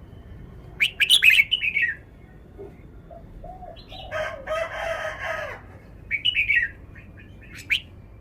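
Red-whiskered bulbul singing short, bright warbled phrases: one about a second in, another near six seconds and a brief one just before the end. Other birds are heard under it, with low repeated cooing notes and a longer, harsher call in the middle.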